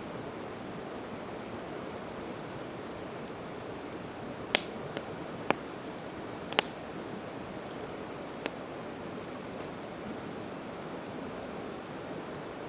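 Campfire of split evergreen wood crackling, with a few sharp pops in the middle, over the steady rush of a river. A cricket chirps steadily through the middle, a little under two chirps a second, over a thin high tone.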